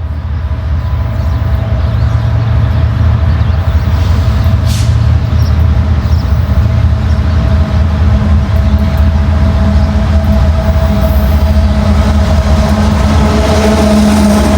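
Diesel freight locomotive running with a steady, low engine drone, growing slightly louder over the first couple of seconds.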